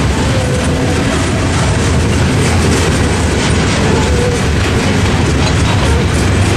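Norfolk Southern freight train's gondola cars rolling steadily past over a level crossing: steady, loud noise of steel wheels running on the rails.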